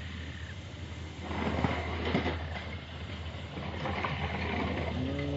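Die-cast toy motorcycles rolling and rattling down a plastic race track, a dense clatter of small ticks that starts about a second in, over a steady low hum.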